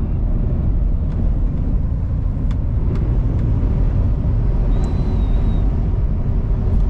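Steady low rumble of road, engine and wind noise inside a semi-truck's cab while driving in strong wind, with a few faint ticks.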